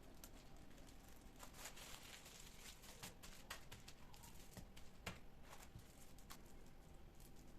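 Faint, scattered light clicks and taps over quiet room tone, the sharpest about five seconds in.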